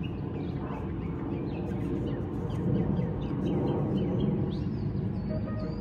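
Songbirds chirping in quick, repeated short notes, with a wavering whistle near the end, over a steady low rumble.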